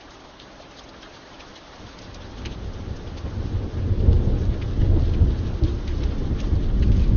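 Steady rain with a patter of single drops. About two seconds in, a low thunder rumble builds up and keeps rolling, soon much louder than the rain.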